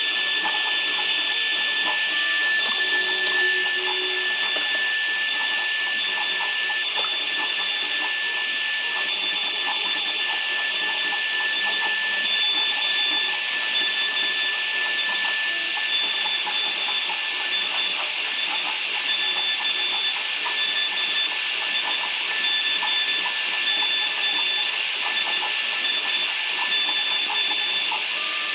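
Woodworking power tool running steadily for the whole stretch: a constant high whine over a dense hiss.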